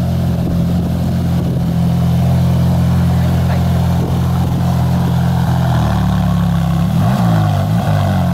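Ferrari 458 Speciale's naturally aspirated V8 idling steadily, then revved up and back down twice in short blips near the end.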